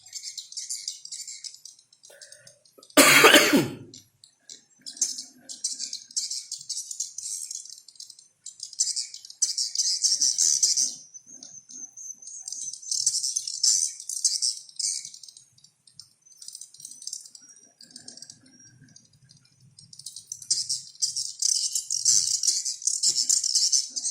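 High-pitched bird chattering and twittering in dense bursts with short pauses: a bird-call recording of the kind played to lure birds in. A short, loud noisy burst cuts across it about three seconds in.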